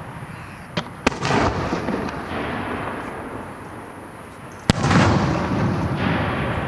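Aerial fireworks shells bursting: sharp reports about a second in and again near five seconds, each followed by a long echoing rumble.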